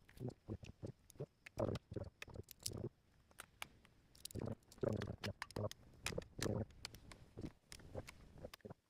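Irregular soft knocks and taps from cutting raw chicken breast with a knife on a cutting board and handling the pieces.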